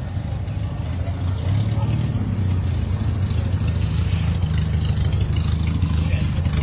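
Car engine running at low speed as the car is eased into a parking spot, a steady low engine note that grows a little louder about a second and a half in.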